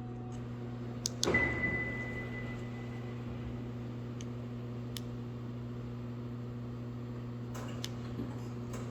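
A steady electrical hum with a few sharp clicks. About a second in, a knock is followed by a high ringing tone that fades over about two seconds.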